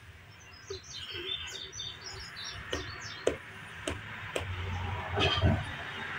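Small birds chirping, short high chirps clustered in the first half, with several sharp clicks around the middle.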